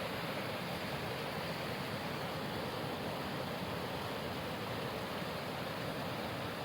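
Small forest waterfall in heavy spate after recent rain, water rushing steadily and loud.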